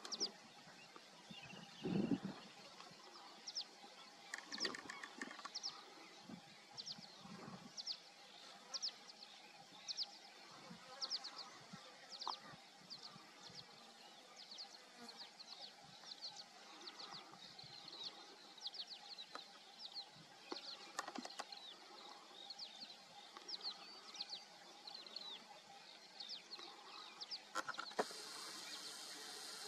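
A small bird calling over and over: short high chirps about once a second. About two seconds in there is a louder low thump.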